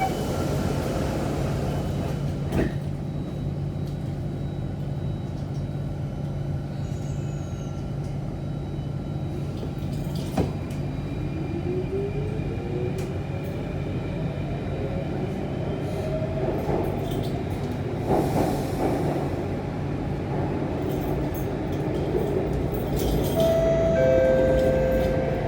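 Inside an Alstom C830 metro train: a knock as the doors shut about two and a half seconds in, then the train pulls away over a steady running rumble, its motor whine rising in pitch as it speeds up. Near the end come two short steady chime tones.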